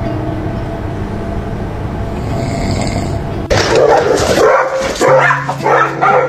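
A dog barking and growling in several loud, close-spaced bursts that break out suddenly a little past halfway through.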